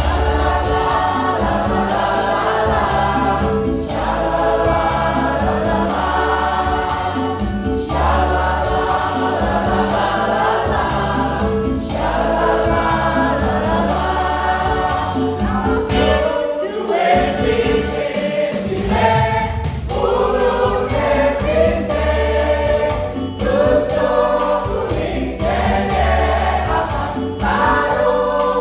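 A choir singing in phrases of about four seconds, over an instrumental accompaniment with steady held bass notes.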